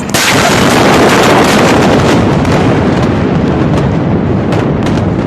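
A large explosion's blast reaching the microphone: a sudden loud bang just after the start, then a continuous loud roar, with a few sharp cracks near the end.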